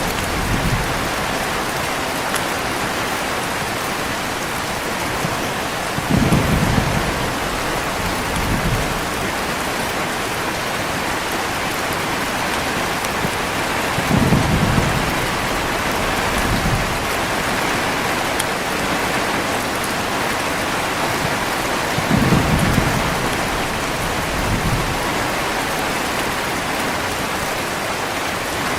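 Heavy rain falling steadily, with low thunder rumbling three times, about every eight seconds, each roll followed by a fainter second rumble.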